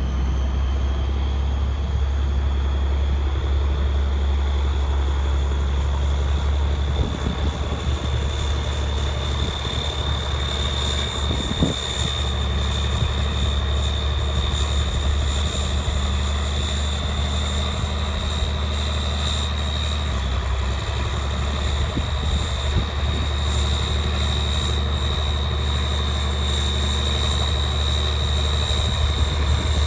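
1975 International 4366 four-wheel-drive tractor's turbocharged diesel engine running steadily, with a high whine over the engine drone that climbs slightly in pitch during the first half and a few light knocks now and then.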